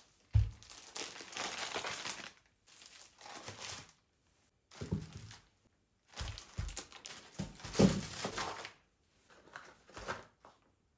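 Crinkling and rustling, as of packaging being handled, in several bursts of a second or two with short pauses, each starting with a soft knock.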